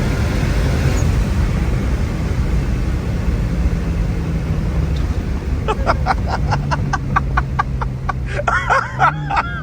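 Cabin noise of a single-turbo BMW N54 straight-six car cruising, with a steady low engine drone and road rumble. In the second half a person breaks into rapid laughter.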